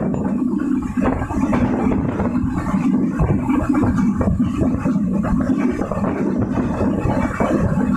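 Silkcity Express passenger train running: a loud, steady rumble of wheels on the rails with continual rattling clatter.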